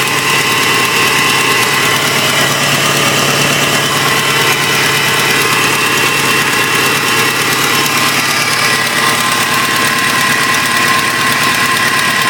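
Opel Vectra B's 1.8-litre X18XE four-cylinder petrol engine idling steadily, with a steady high whine over the engine note.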